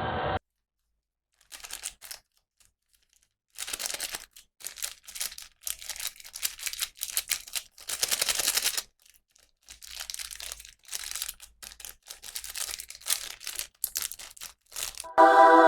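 Plastic packaging crinkling and rustling in irregular bursts as a toy is unwrapped, with a few sharp crackles. Music cuts off about half a second in and starts again near the end.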